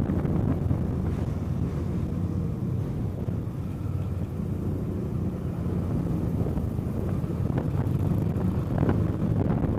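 Kawasaki Eliminator SE's 451 cc parallel-twin engine running while riding, with wind and road noise on the microphone. The engine eases off a little mid-way and picks up again near the end.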